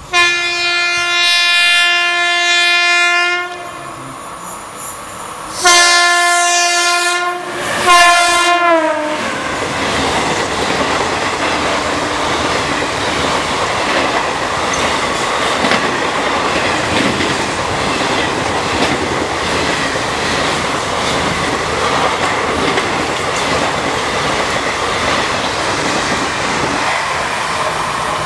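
WAP-5 electric locomotive's horn sounding three times, a long blast, a second blast and a short third that drops in pitch as the locomotive passes, followed by the steady rush and clatter of passenger coaches running through at speed.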